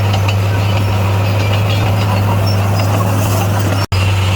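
D58A bulldozer's diesel engine running at a steady, unchanging drone. The sound cuts out for an instant near the end.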